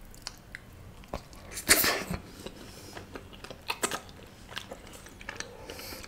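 Close-miked chewing of a mouthful of naan dipped in paneer curry: soft wet mouth clicks and smacks, with one louder smack a little under two seconds in and a few more near four seconds.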